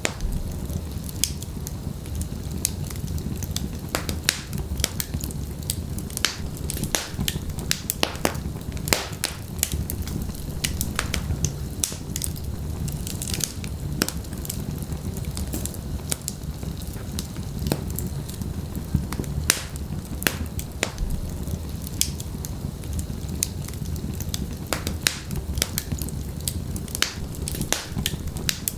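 Wood fire with burning logs crackling: a steady low rumble of flame with many sharp, irregular pops and snaps.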